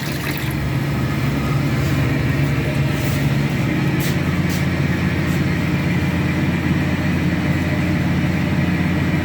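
Steady low mechanical drone of machinery running, with a few faint short hisses high up.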